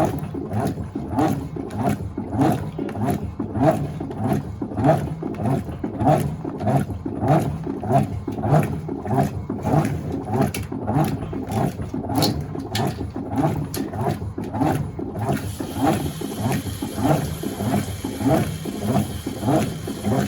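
Electrolux LTA15 top-loading washing machine agitating a load, its agitator swishing water and clothes back and forth at about two strokes a second. About fifteen seconds in, a steady high hiss joins in.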